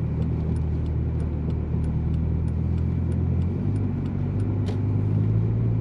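Big-turbo Volkswagen Jetta's engine running steadily while driving, heard in the cabin, its pitch stepping up about three and a half seconds in as it picks up speed. A faint light ticking repeats about three times a second.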